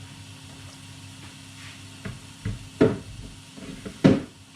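A cooking utensil knocking against a frying pan a few times, the two loudest knocks about three and four seconds in, while spice paste fries quietly in the pan.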